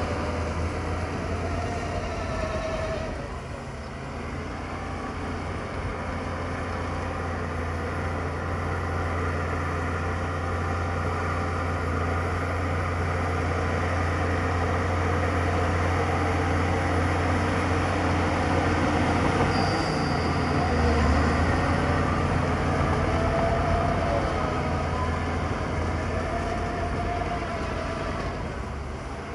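Heavy diesel earthmoving machinery running steadily under work, a deep engine drone that dips briefly a few seconds in and swells louder around the middle.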